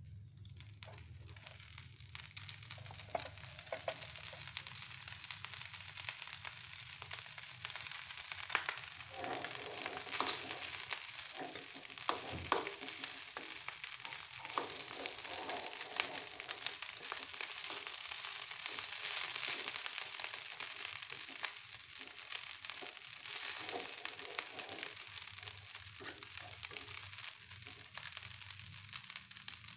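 Fried rice sizzling in a wok over a gas flame while a spatula stirs it, with frequent short scrapes and clicks of the spatula on the pan. The sizzle and stirring grow louder through the middle and ease off toward the end.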